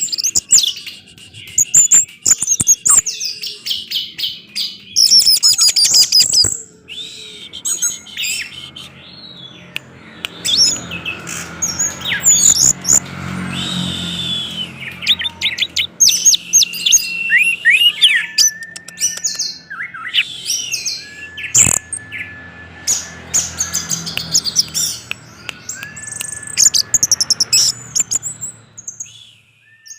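Orange-headed thrush singing a fast, varied song of chirps, trills and whistles, with several long level whistles in the second half. A faint low hum sits beneath the middle part, and a single sharp click comes about two-thirds of the way through.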